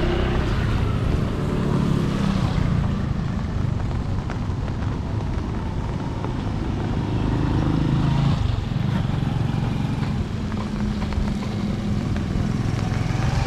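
Road vehicle engines running past, a low steady hum that swells and eases several times, with a faint hiss over it.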